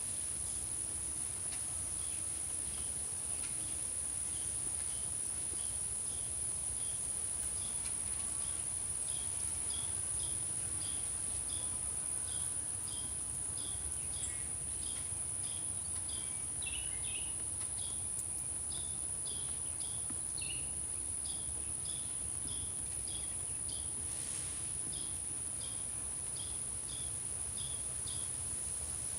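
Outdoor insect chorus: a steady high-pitched trill from crickets with a second chirp repeating at an even pace. A few brief bird call notes come a little past the middle.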